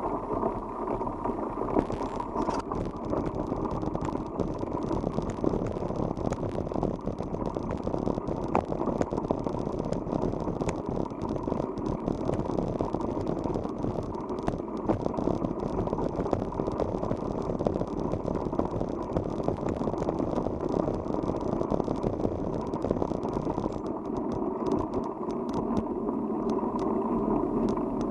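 Bicycle rolling along an unpaved forest road: a steady tyre and riding noise with many small rattling clicks throughout.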